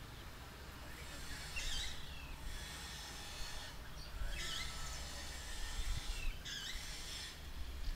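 A small bird in the background singing a short, high phrase about every two seconds, over a steady low rumble.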